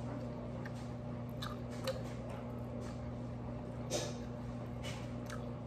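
Quiet eating sounds: chewing and mouth smacks of someone eating fried rice, with about five short, soft clicks, the clearest about four seconds in, over a steady low hum.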